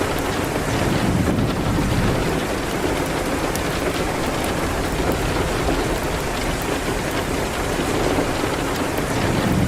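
Steady rain hitting a window, with scattered small crackles from a wood fire in a fireplace.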